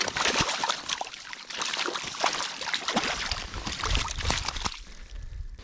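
Close water splashing and dripping, a run of irregular small splashes and drips. A low rumble comes in about four seconds in.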